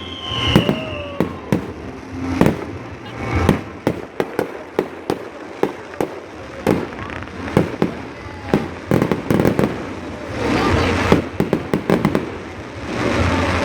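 Fireworks going off in many sharp, irregular bangs, with a short falling whistle at the start and a dense crackling stretch near the end.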